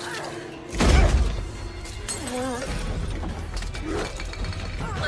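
Film action sound effects: a sudden loud crash with breaking and shattering about a second in, followed by a low rumble and clattering debris under the score.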